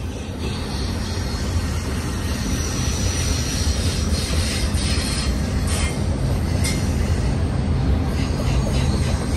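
Double-stack intermodal freight train of loaded well cars rolling past, a steady rumble of steel wheels on rail. A few faint clanks and a brief wheel squeal come in the middle as the slack bunches up through the couplers.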